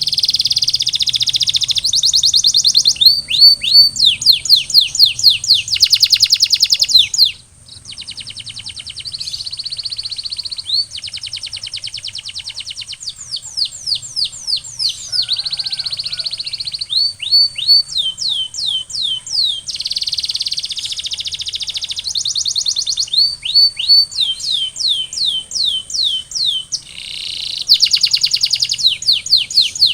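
Domestic canary singing a continuous song of tours: runs of repeated downward-sweeping whistled notes alternating with fast rolling trills, with a brief lull about seven seconds in.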